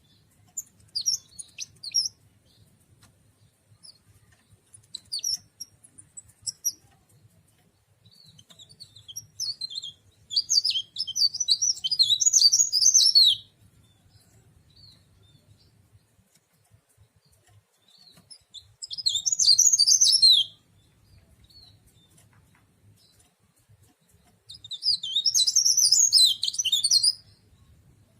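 A cikrak daun (leaf warbler) singing: high-pitched twittering in short scattered chirps, and three longer, louder song bursts of a second or two to three seconds each. A faint low hum runs underneath.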